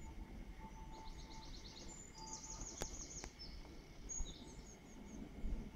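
Small songbirds singing high, quick trills, once about a second in and again a little after two seconds, with shorter high notes later. A low background rumble runs beneath, and two faint clicks come near the middle.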